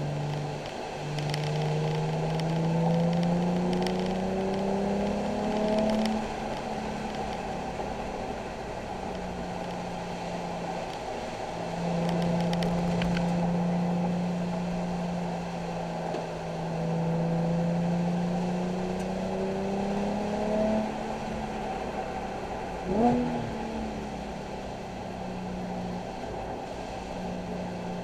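Nissan 370Z's 3.7-litre V6 driven hard on track, its note climbing steadily under acceleration and then dropping back several times. Late on, a single short, sharp rev blip stands out as the loudest moment.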